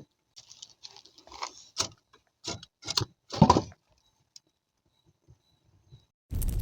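Scattered short rustles and knocks with quiet gaps between them, then near the end a wood fire's dense, steady crackling starts abruptly.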